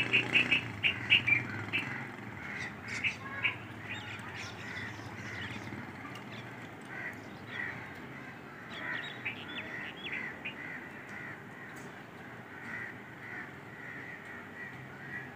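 Birds calling: a quick run of loud short calls in the first second or so, then scattered fainter calls.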